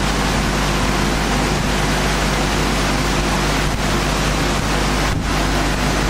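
Industrial wood core board sanding machine running steadily: a loud, even rushing noise over a low hum, dipping briefly twice.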